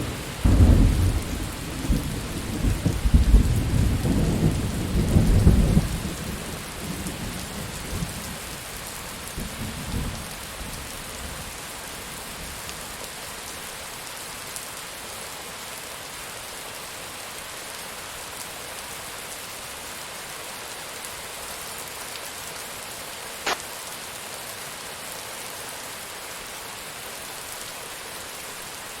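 Steady heavy rain, with a rolling clap of thunder rumbling loudly for the first several seconds and dying away by about ten seconds in. A single sharp tick sounds later over the rain.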